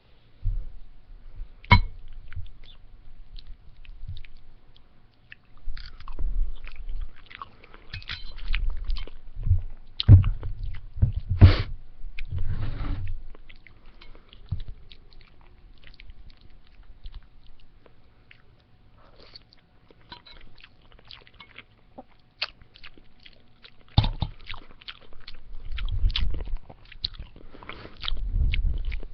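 Close-up chewing of spaghetti and salad, with wet, crackly mouth noises and occasional crunches coming in bursts, with quieter pauses between mouthfuls.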